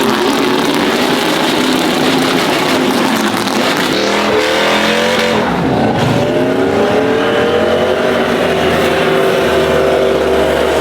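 Truck engine revving hard over a constant rush of noise. Its pitch dips about four to five seconds in, then climbs steadily through most of the rest.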